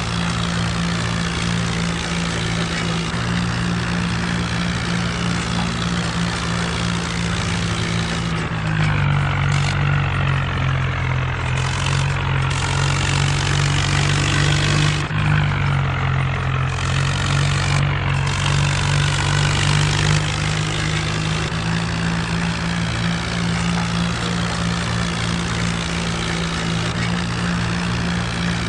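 Mahindra Arjun tractor's diesel engine running steadily. About eight seconds in its note drops a little and grows louder, holding so until about twenty-one seconds in, when it returns to the earlier note.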